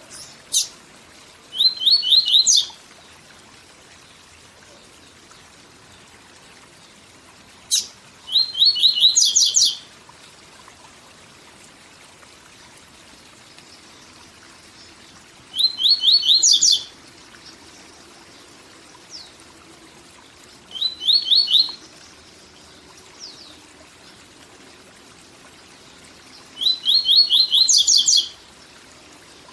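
A papa-capim seedeater singing its 'tui tui zel zel' song: five short phrases of fast, high, repeated notes with pauses of several seconds between them. A steady faint rush of waterfall sound runs underneath.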